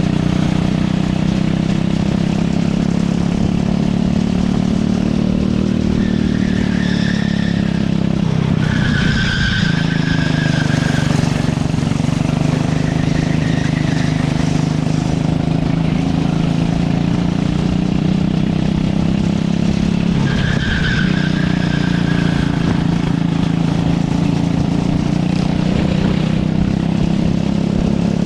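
Racing kart engine running hard on track, its pitch dropping and climbing back twice as the kart slows for corners and accelerates out, with short squeals from the tyres in the turns.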